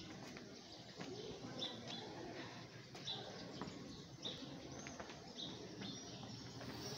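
Faint outdoor ambience: a few short, high bird chirps about a second apart, with light footsteps on stone paving.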